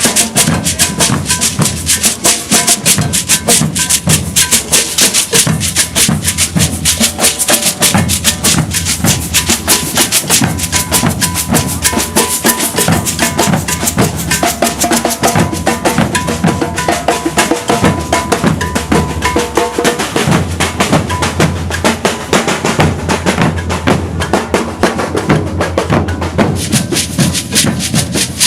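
Maracatu de baque virado percussion ensemble playing a loud, dense groove without pause. Deep alfaia bass drums and snare caixas are played under shakers and a struck metal bell.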